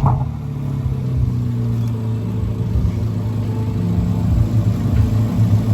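Car engine running at a steady, low, even drone, holding at roughly constant speed.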